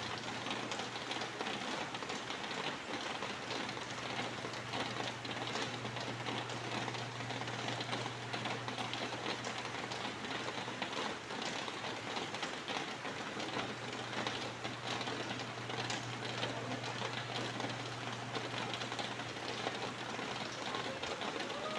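Steady rain, a dense patter of many small drops, over a low steady hum. A short bird call comes right at the end.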